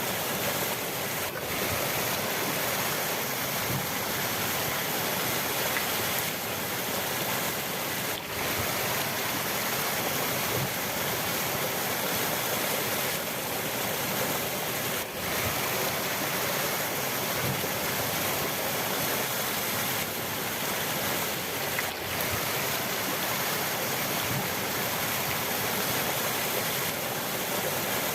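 River water rushing steadily in an even, unbroken wash.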